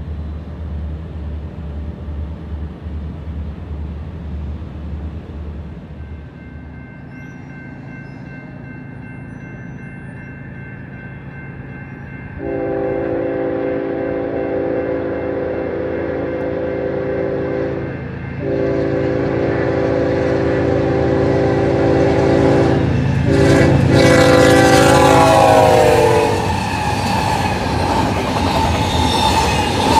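A diesel locomotive idles with a low throb. Then a Union Pacific intermodal train's lead locomotive sounds its air horn in several long blasts as it approaches, and the horn's pitch drops as the engines pass. The double-stack container cars follow, rolling by with a rush of wheel noise and clatter.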